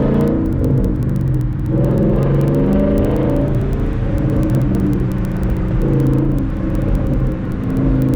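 Car engine running, its pitch shifting up and down a few times.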